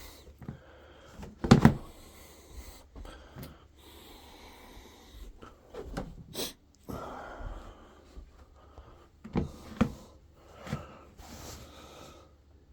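Laundry being put away: clothes rustling with scattered knocks and bumps, the loudest knock about a second and a half in and a few more near the end.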